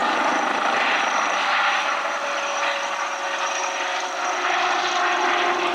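Kamov Ka-62 twin-turboshaft helicopter flying a display pass: steady rotor and turbine noise, with whining tones that slowly drop in pitch.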